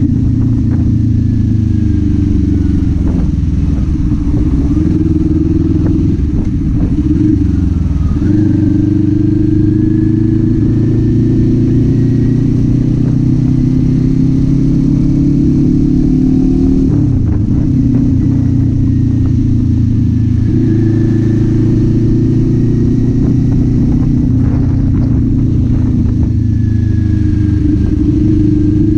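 Kawasaki Z400's parallel-twin engine running on the move, its pitch falling and rising several times with throttle and gear changes, with a sudden jump about eight seconds in and a dip near the middle.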